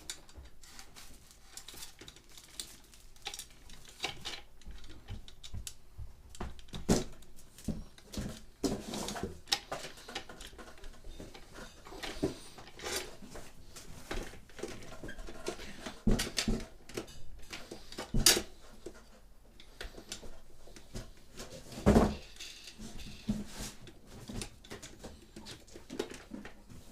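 Irregular clicks, taps and knocks of hard objects being handled, with louder knocks about 7, 16, 18 and 22 seconds in.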